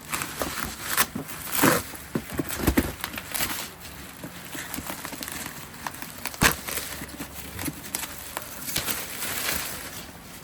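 Packaging being handled while a box is unpacked: crinkling and rustling of wrapping with scattered clicks and knocks, one sharp knock about six seconds in.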